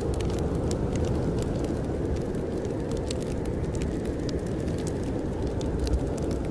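Steady low rush of blizzard wind outside, with a wood fire crackling in frequent small, sharp pops.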